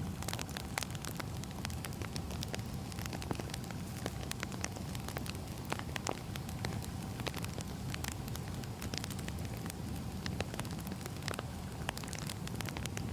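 Wood fire burning: a steady low rumble with frequent irregular crackles and pops of the burning logs.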